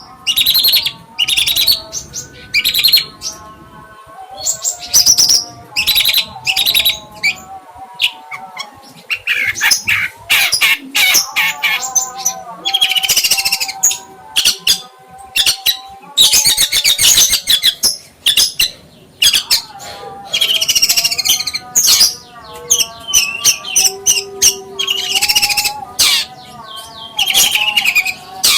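A songbird singing in loud, repeated bursts of rapid high chirps and trills, over soft background music.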